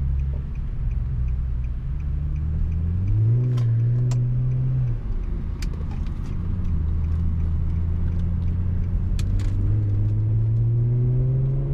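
Infiniti G37's VQ-series 3.7-litre V6 sounding through a custom exhaust while driving: the engine note climbs about three seconds in, drops off near five seconds as the revs fall, runs steady, then climbs again near the end. A few brief clicks sound over it.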